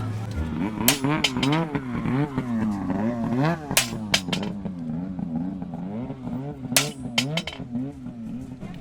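Engine revving up and down in quick, uneven swells, with several sharp clicks over it.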